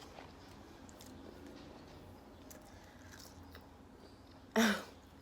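Faint mouth sounds of someone chewing food, then near the end a short, loud, breathy vocal sound like a sigh.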